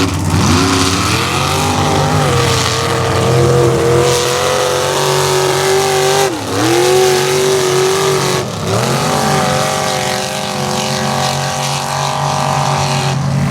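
Off-road vehicle engine revving hard and held at high revs. Its pitch climbs at the start, dips sharply about six seconds in and again about two seconds later, then climbs back each time, as when a mud truck presses on through a pit.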